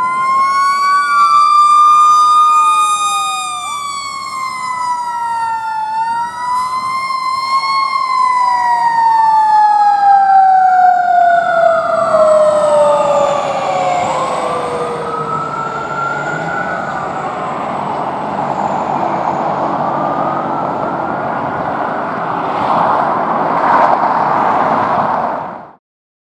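Fire engine's sirens wailing, two tones rising and falling across each other, with one tone gliding slowly down in pitch partway through. A rougher, noisier siren sound follows, and everything cuts off suddenly near the end.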